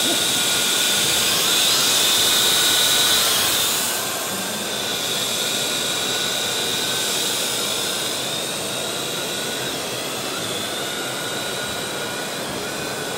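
Parrot AR.Drone quadcopter's electric motors and propellers running, a steady high whine over a whirring hiss, a little louder for the first four seconds or so and then easing off slightly.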